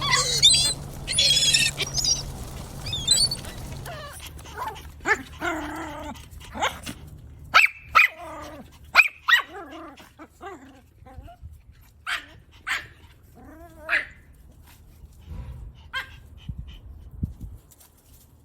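A dog giving short separate barks and whines, spaced irregularly and growing fainter near the end. It opens with a couple of seconds of high, wavering calls.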